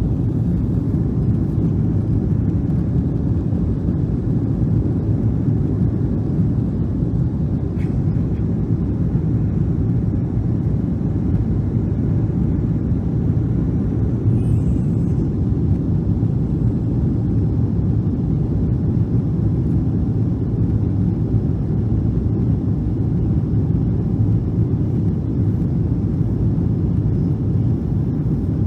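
Steady engine and airflow rumble inside the cabin of a Boeing 777-300 airliner in flight, deep and even, with a faint click about a third of the way in.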